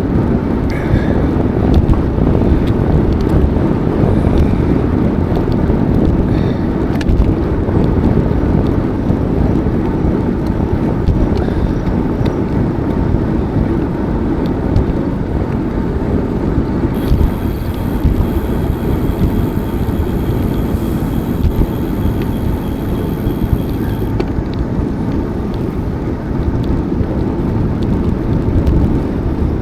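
Wind buffeting the microphone with tyre rumble as a bicycle is ridden along, a steady loud rush. About halfway through, a faint high thin whine comes in for several seconds and then stops suddenly.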